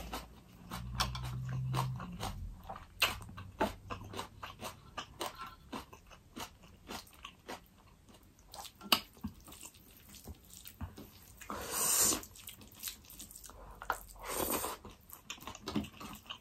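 Close-miked chewing of food with a hand-eaten meal: wet mouth clicks and lip smacks throughout, opening with a closed-mouth "mmm" hum of approval for about two seconds. Two longer, louder airy mouth sounds come about two-thirds of the way through and again near the end.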